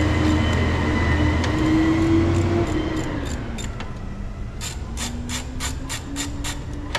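A motor vehicle going by close, its engine rumble fading away about three seconds in. Then a run of sharp, even ratchet clicks, about three a second, as a 10 mm screw on the battery hold-down is worked loose.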